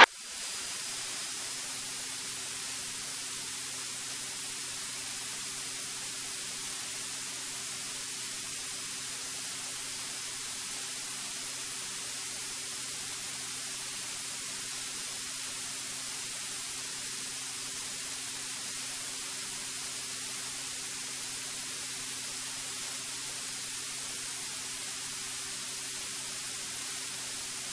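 Steady electronic hiss from the aircraft's intercom audio feed, with a faint, unchanging low hum of the engine beneath it during the climb-out.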